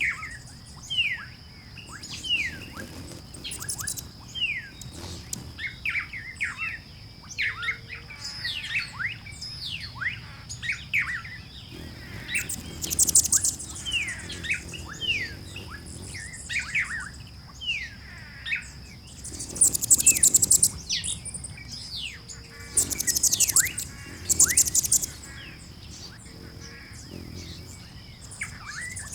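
Chorus of birds chirping: many short, quick downward-sweeping chirps, with several louder high buzzy trills breaking in, over a steady high-pitched tone.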